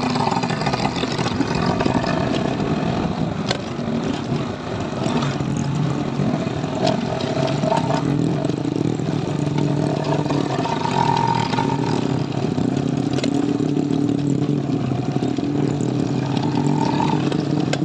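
Small motorcycle engine running as it is ridden, heard from the rider's seat, its pitch rising and falling a few times with the throttle.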